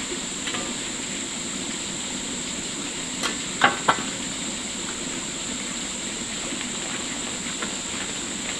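A steady high hiss, with three short knocks a little past the middle.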